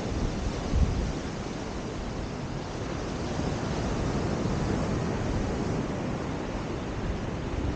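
Steady rush of surf and wind on a beach, with wind buffeting the microphone in low gusts and a brief low bump about a second in.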